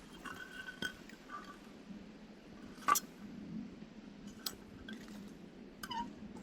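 Wood fire burning with a low steady rustle and scattered sharp crackles and pops, the loudest about three seconds in. Short thin whistles, one falling in pitch near the end, come from firewood that is not fully dried.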